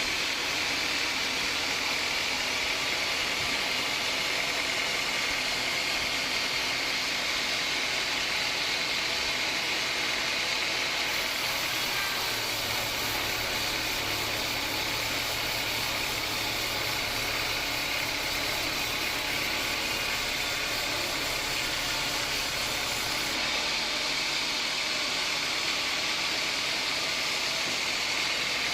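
Band sawmill running steadily, with a high, even whine. For about twelve seconds in the middle, a low rumble and a high hiss are added, then drop away again.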